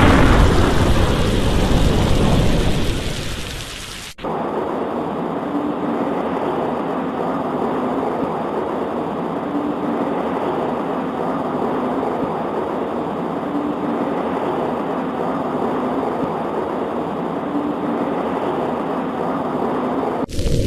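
A thunderclap rumbling and fading away over about four seconds, then steady rain, which cuts in abruptly and carries on evenly to near the end.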